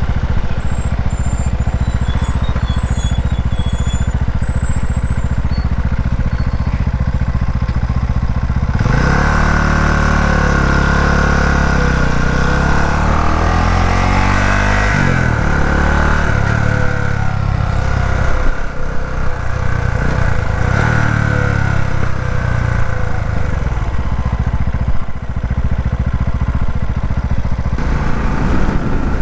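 Motorcycle engine running under way, its pitch rising and falling from about nine seconds in, with steady running before and after.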